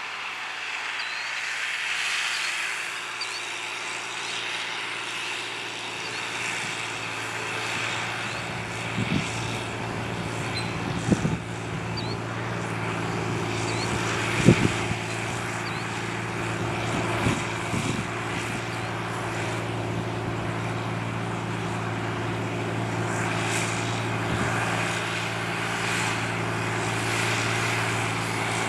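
John Deere 8300 tractor's six-cylinder diesel engine running steadily while pulling a cultivator, with a few sharp knocks in the middle.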